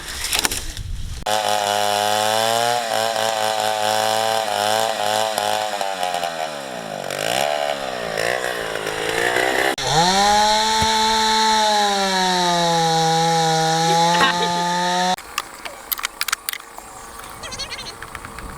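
Two-stroke chainsaw running at high revs. Its pitch sags as it bogs down in the cut about six to eight seconds in, then climbs back up near ten seconds. It cuts off suddenly about fifteen seconds in, leaving scattered clicks and knocks.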